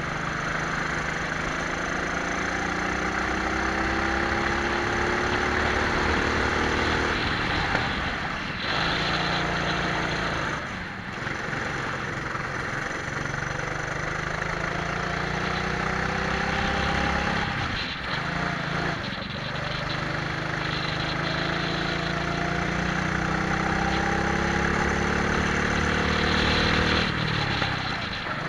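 Twin-engine Prokart's engines revving up for several seconds at a time and dropping off briefly four times, heard onboard over a steady rush of wind and road noise.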